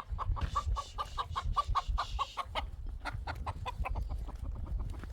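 Chickens clucking in a fast run of short calls, several a second, with a low rumble underneath.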